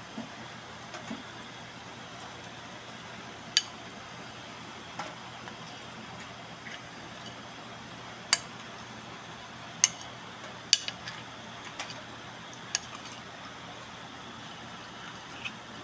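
A metal utensil clinking against a cooking pot, about seven sharp clinks spaced irregularly, over a steady hiss from the pot of thickened asado sauce on the stove.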